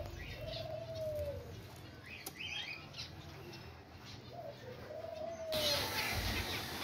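Birds in a zebra finch nest box calling: two long, low, arching calls about four seconds apart, with faint high chirps between them. A rustling hiss comes in near the end.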